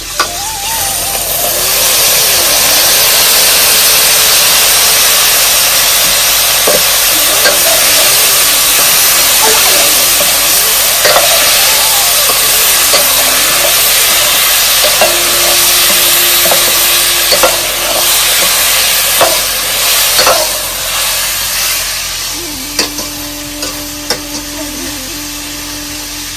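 Heavy rain falling in a steady loud hiss, swelling in over the first couple of seconds and easing off near the end.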